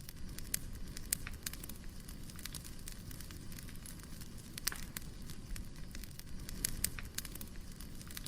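Firewood burning: sharp, irregular crackles and pops over a low, steady rumble of the fire.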